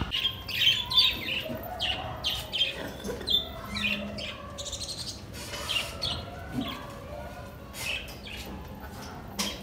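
Birds chirping in short, repeated calls, busiest in the first few seconds and then more scattered. A single sharp click sounds near the end.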